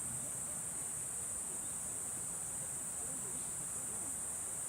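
Steady, high-pitched chorus of summer insects, unbroken throughout, over a low even background rush.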